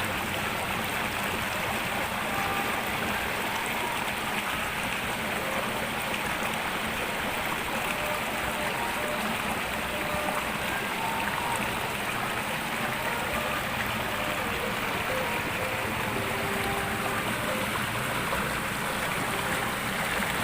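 River water flowing steadily over stones, with a few faint, short tones scattered through it.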